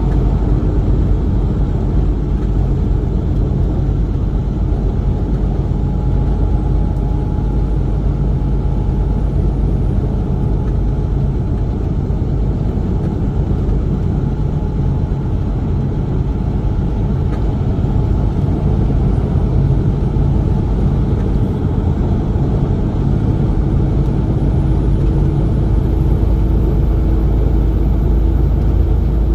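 Tractor-trailer truck driving at a steady pace: a constant engine and road rumble with no change in speed.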